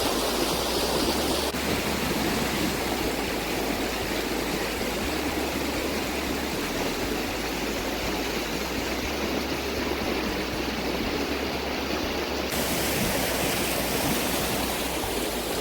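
Steady rush of creek water flowing and spilling over rocks.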